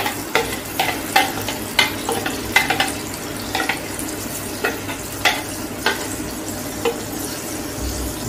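Crushed tomato and garlic sizzling steadily as they fry in hot oil in a steel kadai. A steel ladle scrapes and knocks against the chopper bowl and pan, giving about ten sharp clicks at irregular moments.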